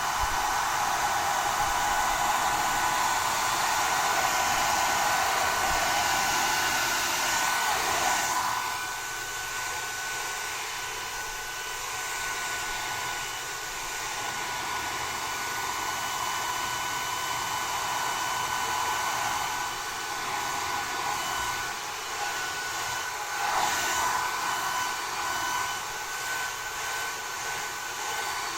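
Hair dryer blowing steadily, a rushing hiss with a thin whine over it. About eight seconds in it drops noticeably quieter, and swells briefly again near the end.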